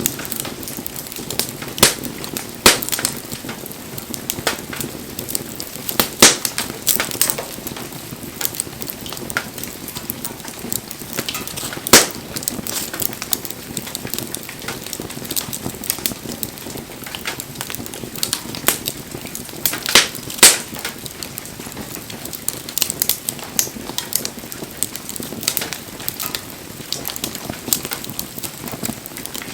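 Wood fire crackling: a steady hiss with frequent sharp pops, a few of them much louder, the loudest near the middle.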